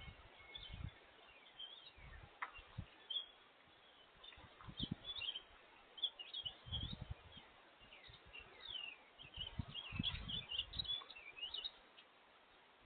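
Small songbirds chirping, many short quick notes, busiest in the second half, with scattered low dull bumps.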